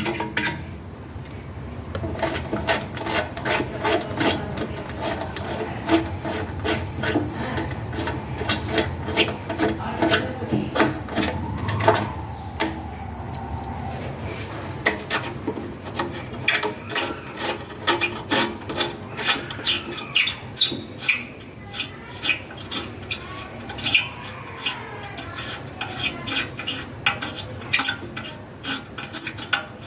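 Rapid, repeated scraping and rubbing strokes of hand cleaning on a small part, scrubbing deposits off an oxygen sensor.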